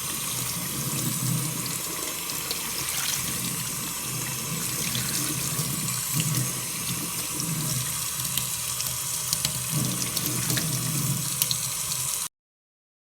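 Tap water running steadily and splashing over a shoe held under the stream, cutting off abruptly near the end.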